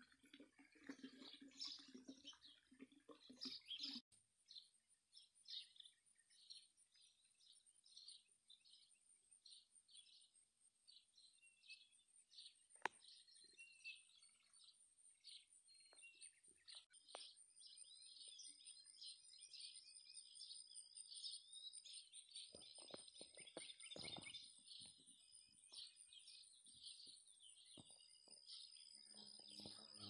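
Faint songbird chirping: many short, high chirps repeating throughout, over a steady high-pitched whine.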